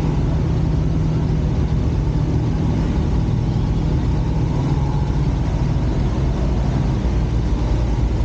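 A vehicle engine running steadily, a continuous low drone.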